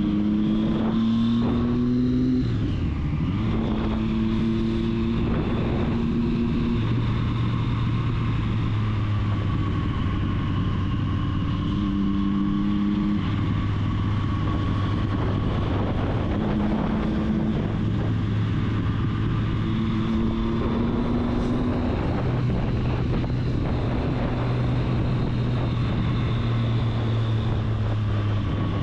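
Triumph Street Triple's three-cylinder engine running under way, its tone holding steady for a few seconds at a time and then shifting pitch in steps as the revs change, over steady wind and road noise.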